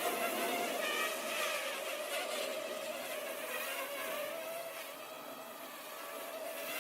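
Parrot Mambo minidrone's propellers buzzing in flight, a high, insect-like hum whose pitch wavers a little as the small drone is pushed about by the wind.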